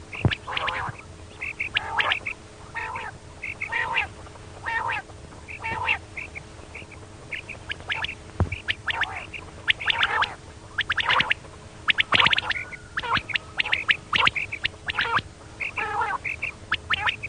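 Female common quail calling: short 'kirik' notes repeated again and again in quick runs, with a faint steady hum underneath.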